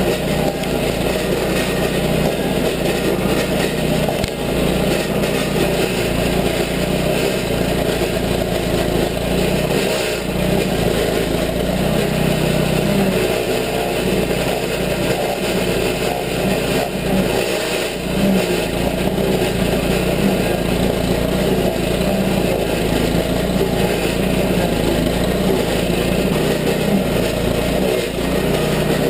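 Rented Toro stump grinder's gas engine running steadily at speed while its cutter wheel grinds into an apple tree stump.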